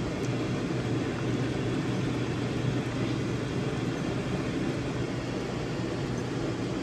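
A steady, low drone of machine-like noise that does not change.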